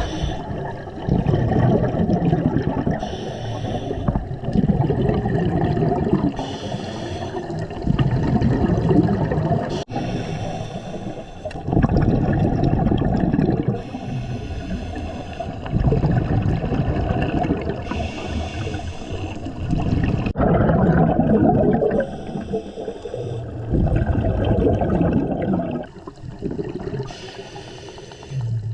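Scuba diver breathing through a regulator underwater: a short hiss on each inhale, then a longer low rush of exhaled bubbles, repeating about every four seconds.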